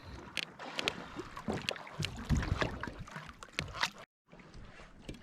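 Water sloshing and lapping against a plastic kayak hull, with scattered irregular knocks and taps on the boat. The sound drops out completely for a moment about four seconds in.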